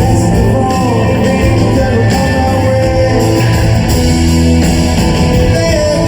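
Live rock band playing loud: guitars, bass and drums, with singing over it.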